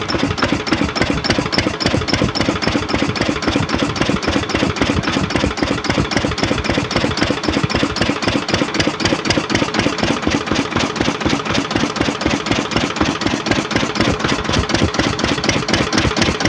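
Lister-type stationary diesel engine running steadily, with an even, rapid beat of firing strokes.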